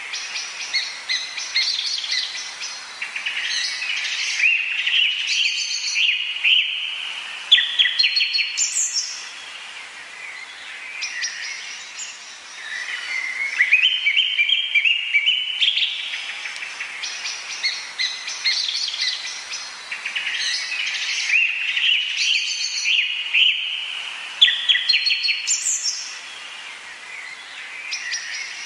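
A chorus of tropical forest birds chirping and trilling, with dense overlapping calls that swell and fade in waves. The same stretch of calls comes round again about seventeen seconds later.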